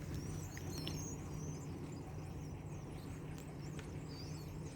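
A large flock of birds chirping faintly and continuously, many short high calls overlapping, over the steady low hum of a car engine idling.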